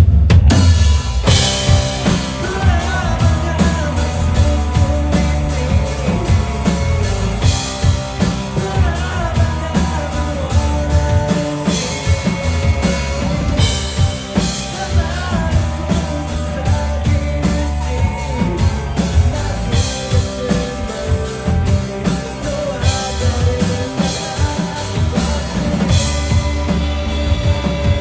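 Rock band playing live, with drum kit, bass and electric guitar. The full band comes in loudly at the very start after a quieter guitar passage, then plays on with a steady, driving beat.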